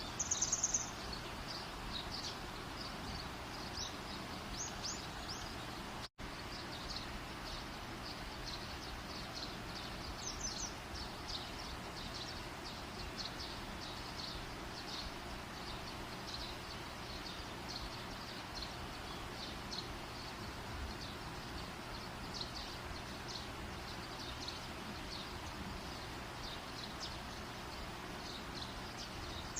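Steady outdoor hiss with many short, high chirps throughout, and a louder high chirp about half a second in and again at the end. The sound drops out for an instant about six seconds in.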